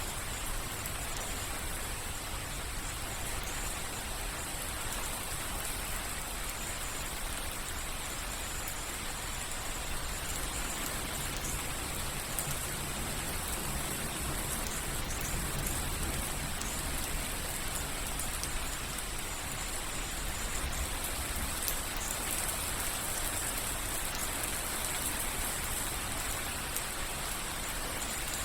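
Rain falling steadily, a continuous patter of many small drops hitting surfaces, with a low rumble underneath.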